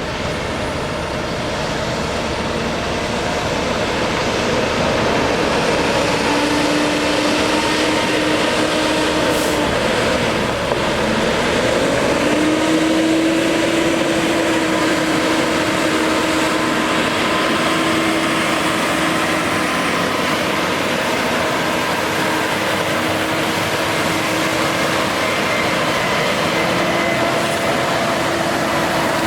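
Heavy truck running with a steady, noisy rumble. Its engine tone steps up a few times.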